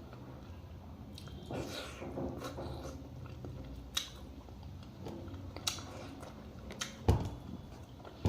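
Close-miked mukbang eating: chewing and mouth noises over a meal of local chicken soup and rice, with scattered sharp clicks and a louder knock about seven seconds in.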